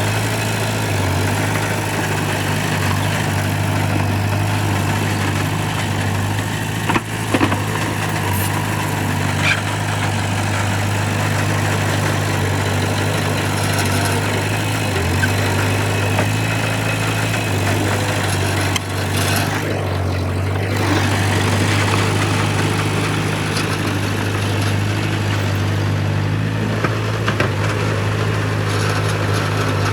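Heavy diesel earthmoving machine's engine running at a steady low speed, with a few short knocks about a quarter of the way in.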